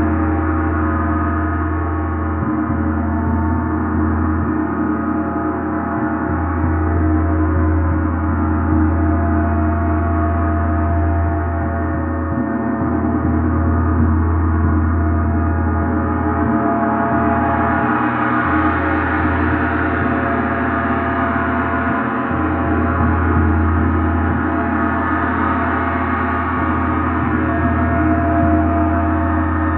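A gong played continuously, its many overtones ringing and shimmering without break, the sound swelling brighter about two-thirds of the way through.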